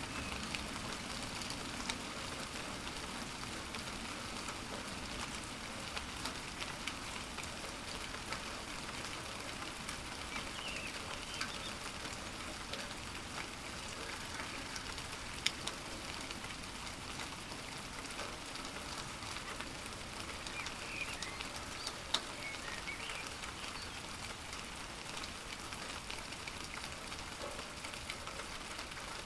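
Steady rain falling, with many individual drops pattering close by. Two sharper drips stand out, about halfway through and again about three-quarters of the way in.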